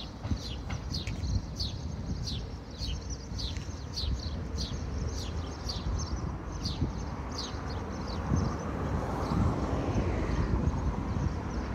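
A bird calling with short, falling chirps, about two or three a second, over a low rumble. From about seven seconds in, an approaching vehicle grows louder and the chirps fade under it.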